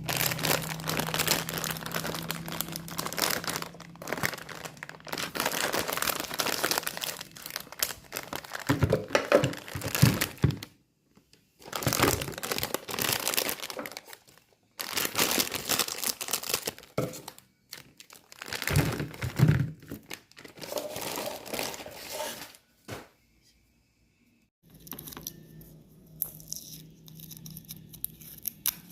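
Crinkling and tearing of plastic packaging, in repeated bursts a few seconds long with short pauses between them.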